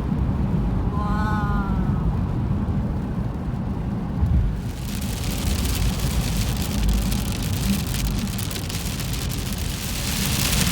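Steady low road rumble inside a moving car. About four and a half seconds in, a dense hiss of rain on the car sets in and keeps going.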